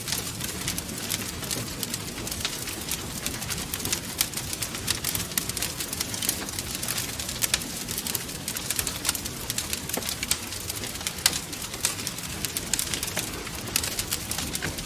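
Wood fire crackling, with many sharp, irregular pops and snaps over a steady low roar of the flames.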